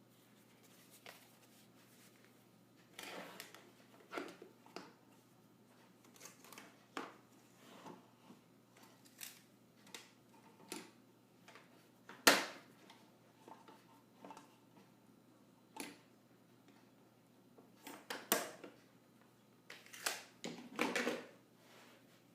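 Scattered knocks and clatters of wood pieces and tools being handled and set down, with quiet gaps between; the sharpest knock comes about halfway through and a short flurry of clatter near the end.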